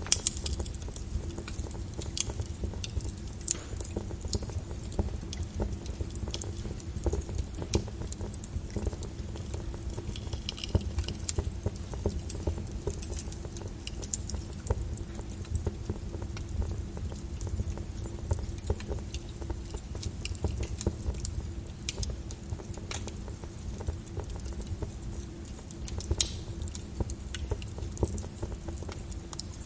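Fireplace fire crackling: irregular pops and snaps over a low steady rumble, with a louder pop near the end.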